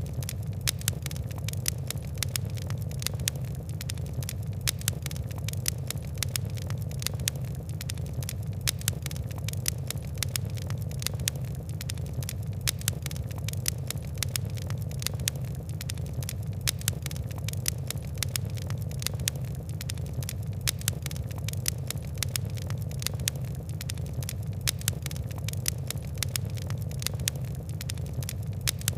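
Fire crackling: a steady stream of sharp pops and snaps, many per second, over a low, even rumble of burning.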